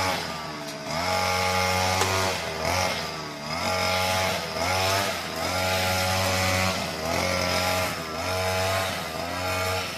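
Small two-stroke brush cutter engine revving up and easing off about once a second while cutting dry weeds.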